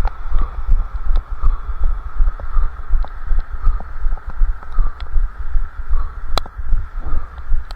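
A runner's footfalls thudding about three times a second, the jolts heard through a head-strapped camera, over a steady hiss, with one sharp click about six seconds in.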